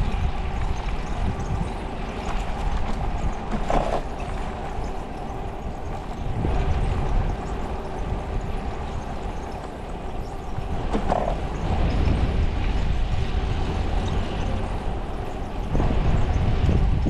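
Wind buffeting the microphone with road and traffic noise during a bicycle ride, the rumble swelling louder about twelve seconds in and again near the end.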